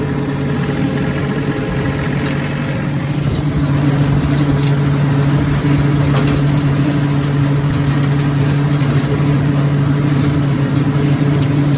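John Deere diesel tractor engine running steadily at its set working speed, driving the brush hog through the PTO. It gets a little louder about four seconds in, with a light crackling over it.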